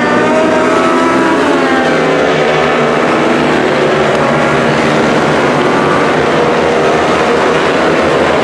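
Racing superbike engines at high revs, several at once, their pitch rising and falling as the bikes change gear and pass by.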